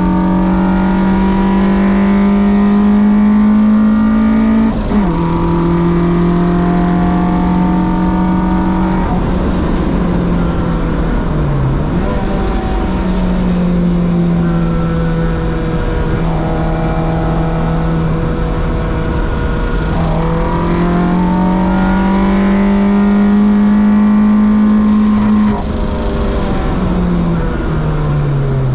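Track-day car's engine running hard at steady high revs, the pitch creeping up and then falling sharply about five seconds in. There is a brief dip around twelve seconds, a long slow rise, and a falling run of revs near the end.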